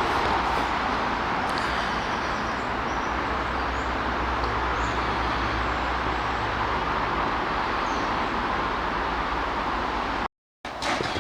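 Steady outdoor background of distant road traffic, an even hiss and rumble with no single vehicle standing out. It drops out completely for a moment near the end.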